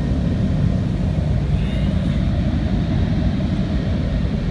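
Automatic car wash air-blower dryers blasting a steady rush of air over the car, heard from inside the cabin; it sounds like a gale blowing outside. This is the drying stage after the wash, pushing the water droplets off the body.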